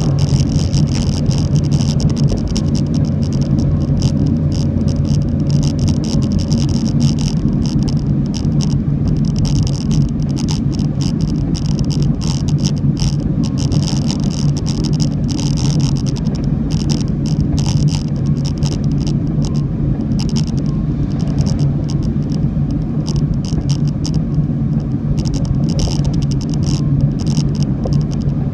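Steady low rumble of a car driving, with engine and road noise heard from inside the vehicle, and a constant flickering hiss above it.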